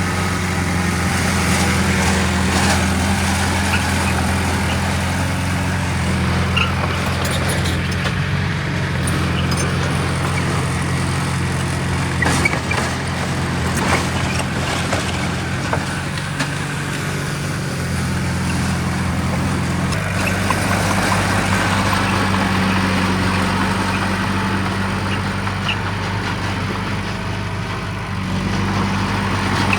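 Heavy diesel engine of earthmoving machinery running steadily, its pitch stepping up or down a few times as the load or throttle changes. A few short knocks come about twelve to fourteen seconds in.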